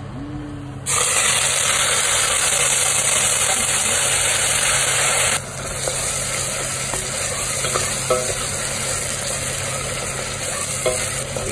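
Blended spice paste of shallots, garlic, chilli, galangal, ginger and lemongrass sizzling as it fries in hot oil in a pot. The sizzle is loud for the first few seconds, then drops to a softer, steady sizzle with small crackles. This is the sauté stage, cooked until the oil separates.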